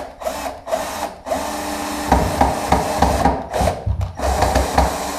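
Power drill driving a self-tapping screw into wood. It starts in short stop-start pulses, then runs steadily with a heavy juddering rattle through the second half.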